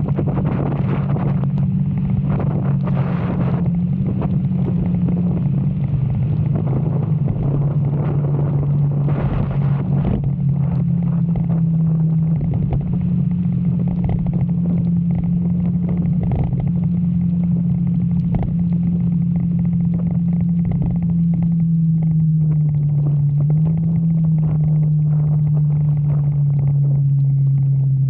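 Motorcycle engine running steadily at riding speed, its hum dropping a little in pitch toward the end, under heavy wind noise on the microphone.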